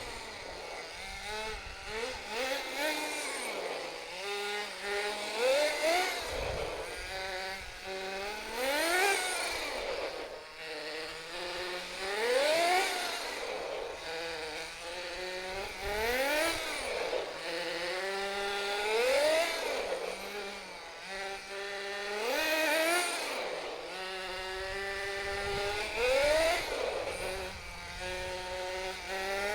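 Small nitro RC truck engine (SH .18) revving up and dropping back, again and again every few seconds over a steady idle. It is running on a mixture the owner judges a little lean.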